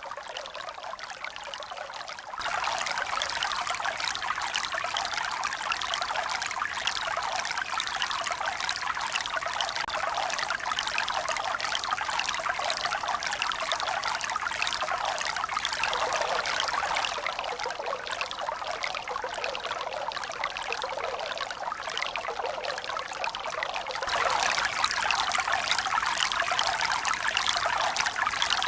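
Steady rush of running water, pouring and trickling without any rise and fall of waves. It jumps abruptly louder about two seconds in, eases a little past the middle, and jumps up again near the end.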